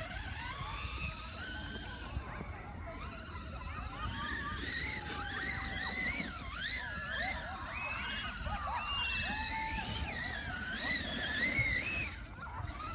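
Electric motor and drivetrain of a 1:7 scale RC monster truck whining, its pitch rising and falling repeatedly as the throttle is worked, over a low rumble.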